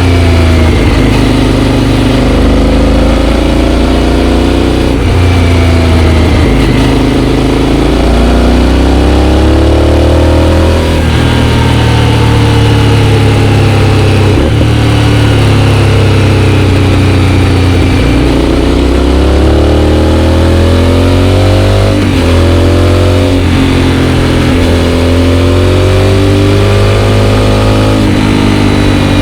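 Aprilia Shiver 750's V-twin engine through a GPR aftermarket exhaust. The revs climb and drop again several times, as when the motorcycle accelerates through the gears.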